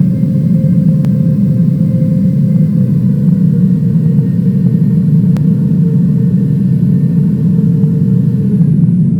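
Jet airliner heard from inside the cabin: a loud, steady rumble with an engine whine that slowly falls in pitch and drops more steeply near the end as the engines spool down.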